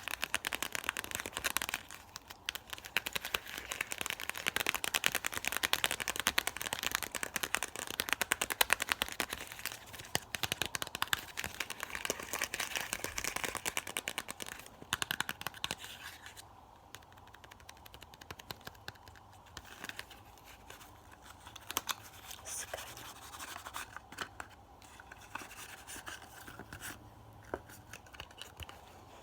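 Fast ASMR mouth sounds close to the microphone: a dense run of rapid wet clicks and smacks that thins out to sparser clicks about halfway through.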